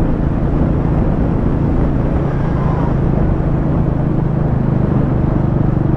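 Motorcycle engine running steadily while riding uphill, in a low gear under a heavy load of pillion and luggage, with a constant rush of noise over it.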